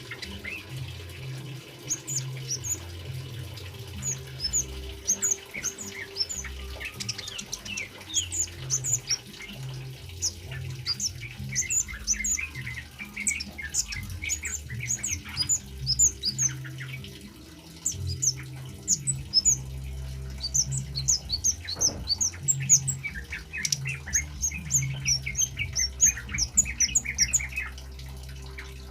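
Male kemade bird calling in a rapid, continuous string of short, sharp, high chirps that sweep downward, over a low steady hum.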